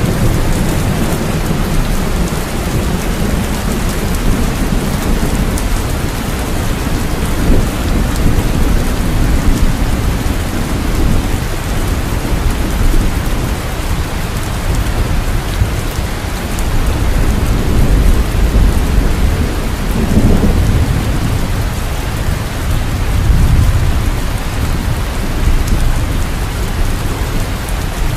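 Steady rain falling, with low rolling rumbles of thunder swelling and fading underneath a few times.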